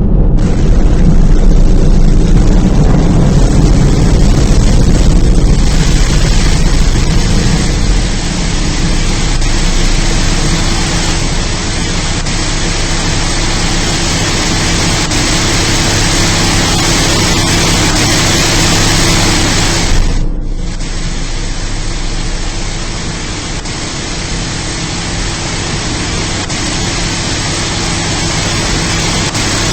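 Sonny's BayWash in-bay automatic car wash running over a car: a steady loud rushing noise with a motor hum beneath. The rush cuts out for a moment about twenty seconds in, then carries on.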